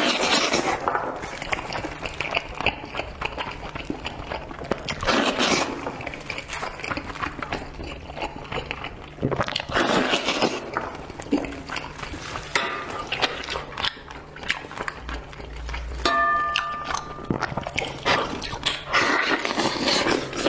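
Close-miked eating sounds: chewing, slurping and many small clicks of food being bitten. Near the end a few steady musical tones come in over them.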